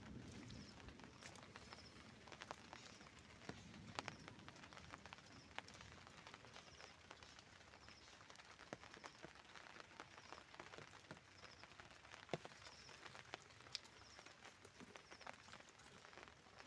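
Faint outdoor ambience: a short, high chirp repeating roughly once a second, over scattered light ticks.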